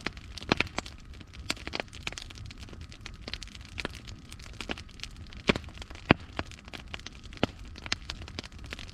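Wood fire burning in a fireplace: irregular crackles and sharp pops over a low, steady rumble, with the loudest pops a little past halfway.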